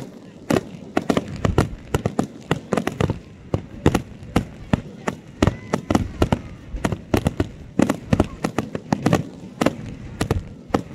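Fireworks display at close range: aerial shells and rising comets going off in rapid, irregular bangs, several a second.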